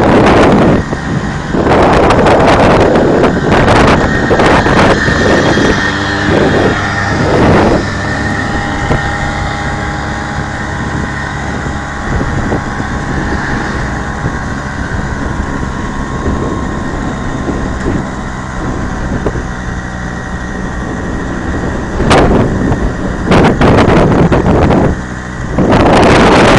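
Hercules Prima 5 S moped's small two-stroke engine running, the odd noises its owner is asking a forum about. Heavy gusts of wind on the microphone come near the start and again near the end.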